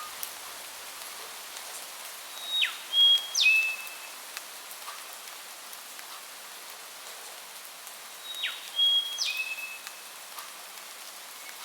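Steady hiss of rain with a songbird whistling the same short phrase twice, about six seconds apart. Each phrase is a few clear whistled notes that slide sharply downward and then hold briefly.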